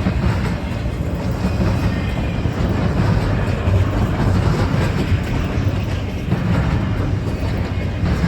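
Freight train rolling past at close range: a steady, loud rumble of wheels on rail with a faint clickety-clack.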